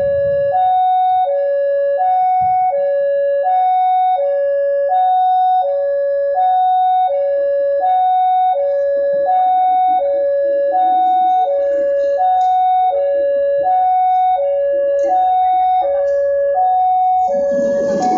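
Railway level-crossing warning alarm sounding an alternating two-tone signal, high then low, each tone about three quarters of a second, repeating steadily. A rumbling noise builds near the end.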